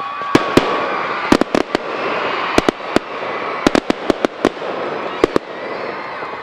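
Aerial fireworks bursting: a rapid string of sharp bangs, mostly in quick clusters of two to five, over a continuous crackling hiss.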